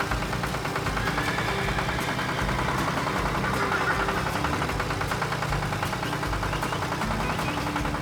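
Tractor engine running with a rapid, steady chugging.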